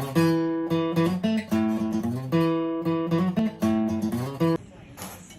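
Acoustic guitar music, strummed chords about twice a second, which stops abruptly near the end and gives way to quieter background sound.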